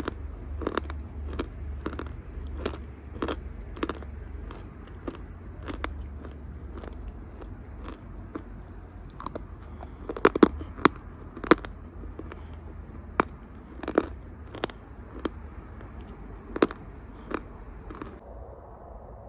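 Chalk being bitten and chewed close to the microphone: a run of sharp, crisp crunches about one or two a second, with a few louder bites around the middle.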